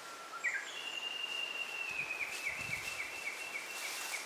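A bird singing. It opens with a short low whistled note that steps up into a long, high, steady note, with a run of short repeated notes at about two or three a second. A steady outdoor hiss lies underneath.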